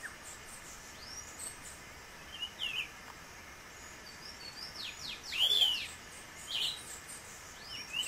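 Birds calling: a handful of short, separate chirps and arched whistled notes, the loudest about five and a half seconds in, over a faint steady background hiss.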